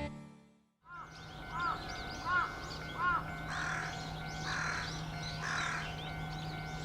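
A crow cawing. It starts about a second in with four short arched caws about 0.7 s apart, then gives three longer, harsher caws about a second apart, over faint high birdsong and a low steady hum.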